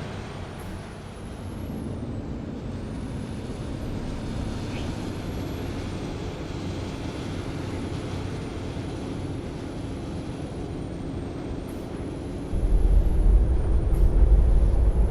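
Scania K420 double-decker bus on the move: steady engine and road noise with a faint tone that slowly rises in pitch. A heavier, louder low rumble comes in about twelve seconds in.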